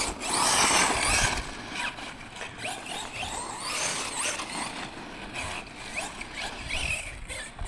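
Tekno MT410 2.0 RC monster truck driving over rough ground: its electric motor whines up and down in pitch as the throttle is worked, over tyre and ground noise that is loudest in the first second or so.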